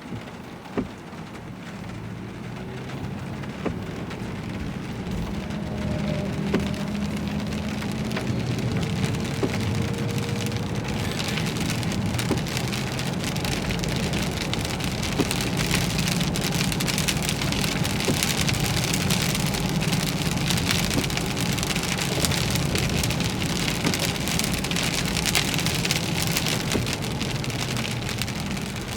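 Heavy rain beating on a vehicle during a severe thunderstorm, building up over the first several seconds to a steady downpour, with a few sharp drop hits early on and a low steady rumble underneath.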